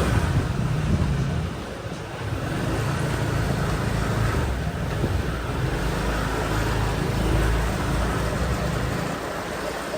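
Road traffic and a moped's engine heard while riding on it, with a heavy low rumble that eases about nine seconds in.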